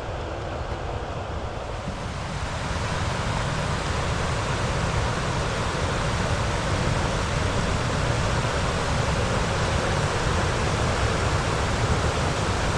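Steady rushing of water from a waterfall and rapids, growing louder about two seconds in and then holding.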